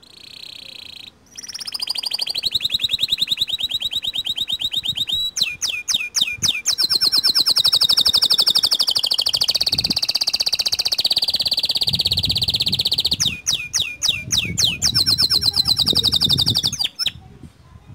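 White domestic canary singing one long song of fast trills and rolls, with sweeping rising and falling notes in the middle and again near the end. The song stops shortly before the end.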